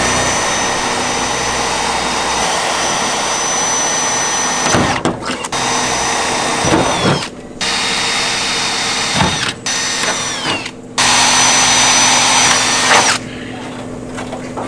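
A handheld power tool with a high motor whine and a hiss. It runs steadily for about five seconds, then is triggered in several shorter bursts of one to two seconds, its whine dropping in pitch each time it is released. It stops about a second and a half before the end.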